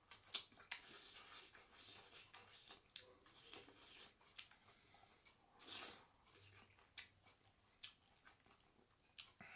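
Close-miked eating: chewing with scattered short clicks, and a brief louder noisy burst about six seconds in.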